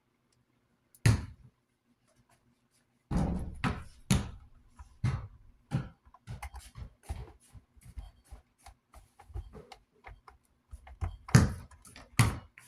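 Irregular knocks and clicks of tools and metal fan parts being handled while working on the oscillating fan's knob and screw. There is one loud knock about a second in, a busy run of knocks from about three seconds, lighter taps after that, and two loud knocks near the end, over a faint steady hum.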